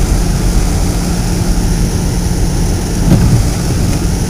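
Steady low rumble of a car's engine and tyres on a snowy road, heard inside the cabin, with the heater blower hissing.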